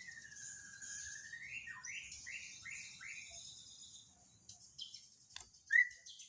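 White-rumped shama (murai batu) song: one long clear whistle sliding down and back up, then a quick run of about five short falling notes. Near the end come a few faint short notes and a single click.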